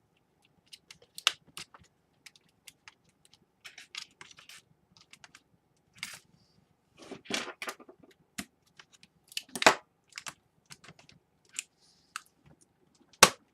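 Irregular small clicks, taps and scrapes of a Dell Inspiron 11 laptop's plastic and aluminium parts being handled and fitted together during reassembly, with two sharper knocks, one near the end.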